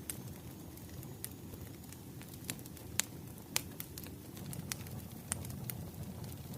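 Bonfire crackling: a steady low rumble of burning wood with irregular sharp pops and snaps, the loudest two about halfway through.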